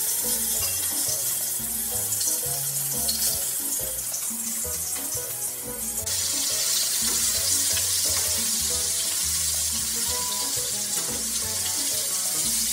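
Food sizzling and frying in hot oil in a pan, a steady hiss that grows louder about six seconds in, with background music playing under it.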